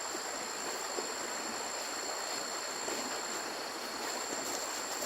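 Steady outdoor rushing noise with insects trilling in two high, unbroken tones, and a few faint ticks.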